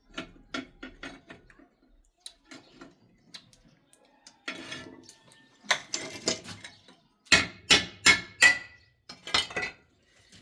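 Hard objects clattering and clinking: a series of sharp knocks, sparse at first, then in loud clusters in the second half, one leaving a brief metallic ring.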